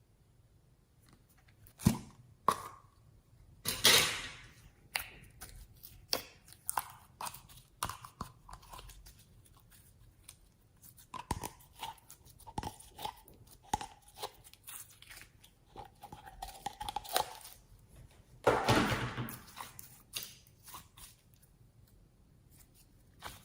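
Store-bought slime being handled and mixed with makeup: irregular clicks, crackles and squishes, with louder crunches about 2, 4 and 19 seconds in.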